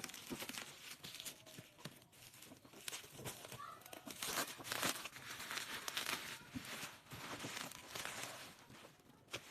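Packaging crinkling and tearing as it is handled, in uneven rustling spells that grow louder around the middle and die down near the end.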